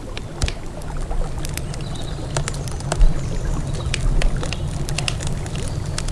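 Wood campfire crackling, with frequent irregular sharp pops, over a steady low rush of a flowing river.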